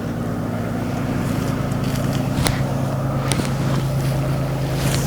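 Safari vehicle's engine idling with a steady low hum, with a few short clicks or snaps about halfway through.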